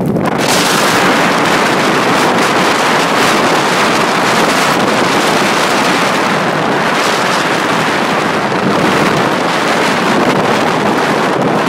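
Storm-force wind blowing hard and buffeting the microphone in a loud, steady roar that surges up just at the start and holds.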